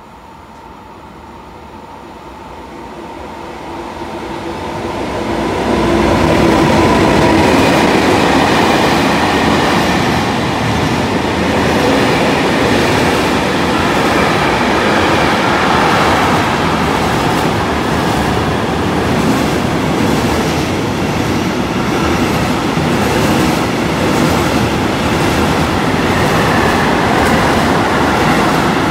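Intermodal freight train approaching and running through the station without stopping. It grows louder over the first six seconds, then its wagons roll past in a steady loud rumble with the clatter of wheels over the rails.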